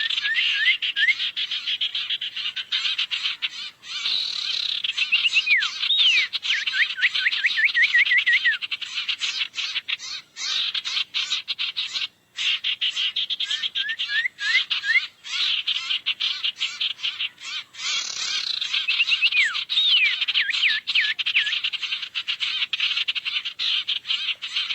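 Bird-lure recording of many small birds chattering and calling together, with runs of quick, rising whistled chirps that come again and again. The sound breaks off briefly a few times.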